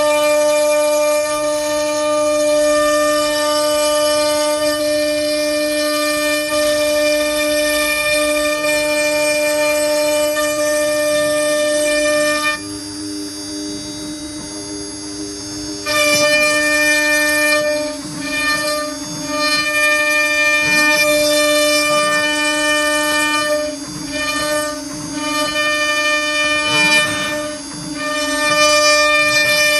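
CNC router spindle whining at a steady pitch while routing a recess in wood for epoxy resin. The upper tones of the whine drop away for a few seconds near the middle, then come and go repeatedly.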